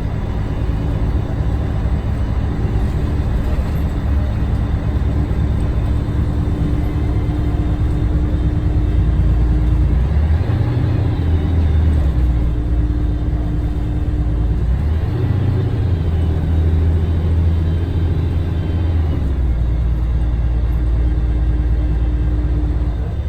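Scania DSC1171 11-litre six-cylinder diesel engine of a Scania L113TRB bus running steadily. The engine note changes abruptly several times, about ten, fifteen and nineteen seconds in.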